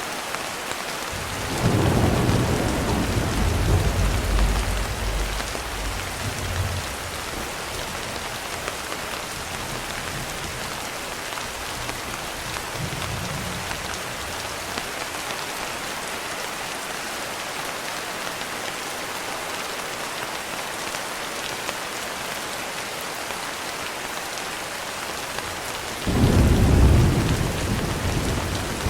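Steady rain falling, with two rolls of thunder: a low rumble starting about a second and a half in and fading over several seconds, and another breaking suddenly near the end.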